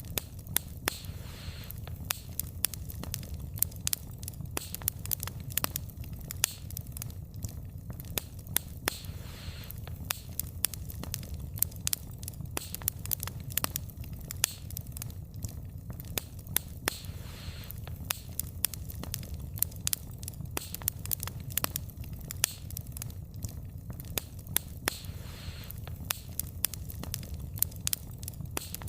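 Wood fire crackling: frequent irregular sharp snaps and pops of burning logs over a steady low rumble of the flames.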